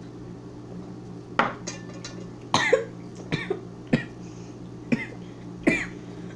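A person coughing and spluttering in a string of about half a dozen short coughs, starting about a second and a half in, after gulping a shot of soda without taking a breath first.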